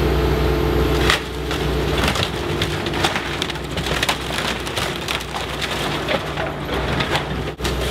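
A prefab bungalow being torn apart by demolition machinery: a steady heavy engine hum gives way, about a second in, to continuous crunching, cracking and splintering of the building's materials breaking up.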